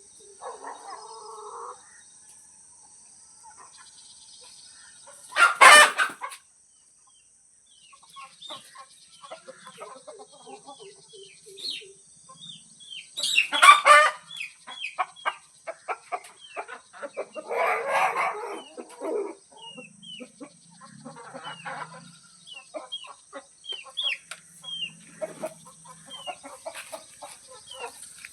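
Domestic chickens calling: a hen clucking, with several loud, longer calls around 6, 14 and 18 seconds in. Many short, high, falling peeps run in between, typical of chicks with their mother. A steady high insect drone, crickets, runs underneath.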